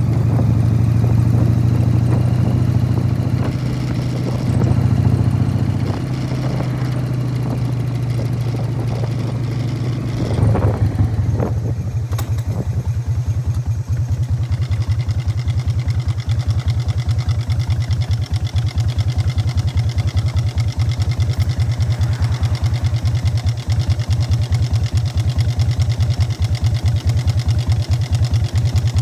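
1999 Harley-Davidson Fat Boy's Evolution V-twin through Python mufflers, pulling steadily at first and then, about ten seconds in, dropping to a loping idle with evenly spaced exhaust beats.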